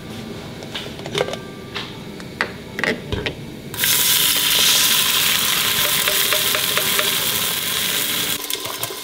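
Blended spice paste hitting hot oil in a stainless steel stockpot: a sudden loud sizzle starts about four seconds in and runs on steadily, then eases off near the end. Before it, a few light clicks and taps.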